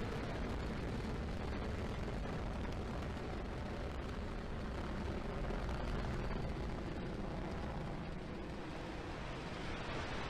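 Falcon 9 rocket's first-stage engines rumbling steadily during ascent: a deep, crackling roar.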